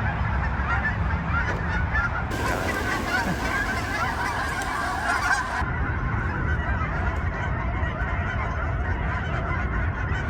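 A flock of geese honking, many overlapping calls at once, busiest in the middle stretch.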